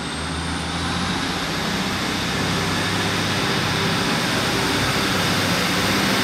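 Diesel multiple unit engines running under power, growing slowly louder, with a high whine that climbs in pitch about a second in.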